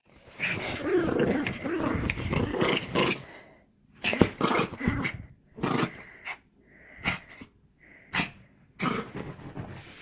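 A dog vocalizing: one long rough stretch lasting about three seconds, then five or six short bursts with pauses between them.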